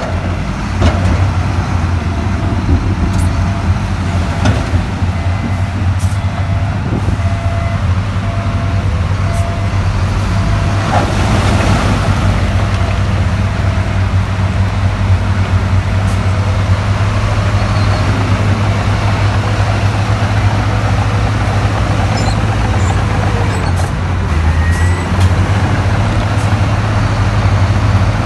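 Heavy diesel earthmoving machinery running steadily with a deep, constant engine hum and a few faint clanks, with a brief louder rush of noise about eleven seconds in.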